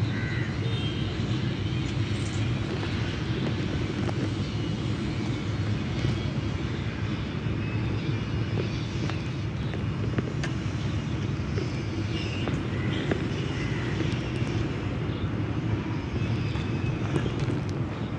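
Kawasaki ER-6f parallel-twin motorcycle engine running steadily through a full Akrapovic exhaust, a low, even rumble with no revving.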